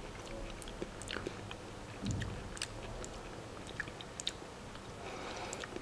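A person chewing a soft segment of mangosteen flesh, with scattered faint mouth clicks.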